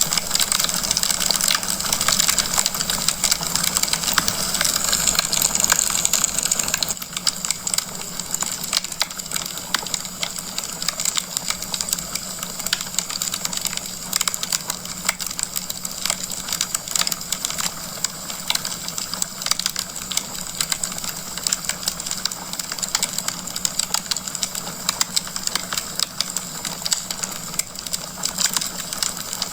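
Wood fire crackling and popping in a fireplace, many irregular small snaps over a steady hiss; the whole sound drops a little in level about seven seconds in.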